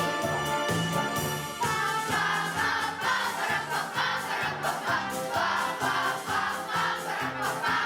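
A class choir singing a march-style song over a recorded backing track, with a steady bass line changing note about twice a second.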